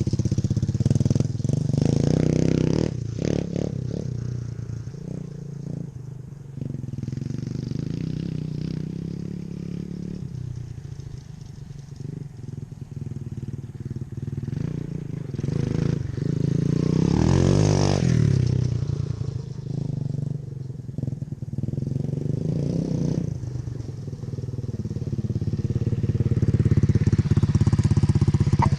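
Dirt bike engine running as it is ridden, revving up and easing off, louder near the start, about halfway through and near the end.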